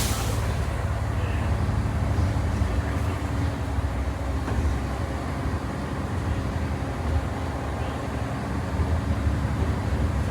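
Ride inside a 1996 Volvo B10B diesel bus under way: the engine runs steadily under the floor, along with road and tyre rumble.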